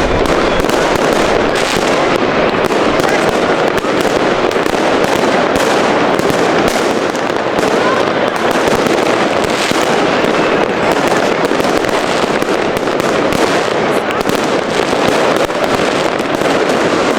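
Many fireworks and firecrackers going off at once: a dense, unbroken barrage of crackling and bangs, with no pause throughout.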